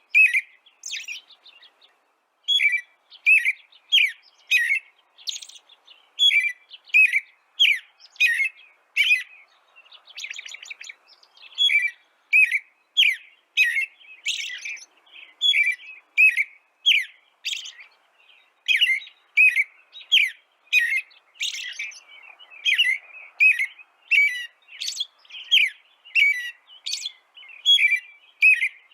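Small songbirds chirping: short, sharp notes repeated about twice a second, with a quick rattling trill about ten seconds in.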